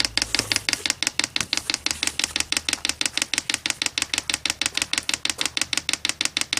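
Diesel heater's fuel dosing pump clicking in manual priming mode: rapid, evenly spaced clicks, several a second, as it pumps diesel through the line to purge the air.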